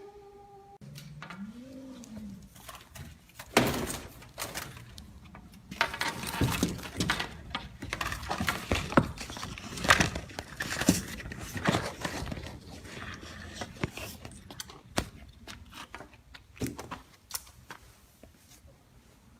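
Irregular knocks, bumps and rustling, densest and loudest through the middle, as the trapped mockingbird is chased and caught by hand. There is a brief animal call near the start.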